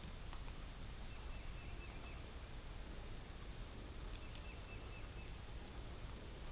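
Wild birds calling faintly: a few brief high chips and two short runs of quick repeated notes, over a steady low rumble of outdoor background noise.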